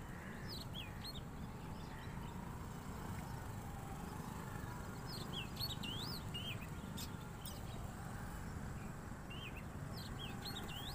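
Small birds chirping in short, quick, up-and-down calls, in clusters near the start, around the middle and near the end, over a steady low background rumble.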